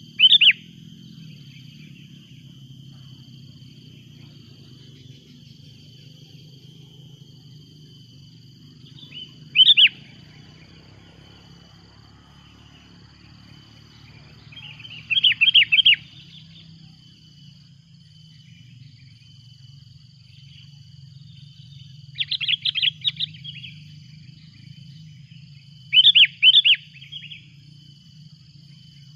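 Sooty-headed bulbul (kutilang) calling loudly in five short bursts of quick, chattering notes spaced several seconds apart, over a steady thin high-pitched drone.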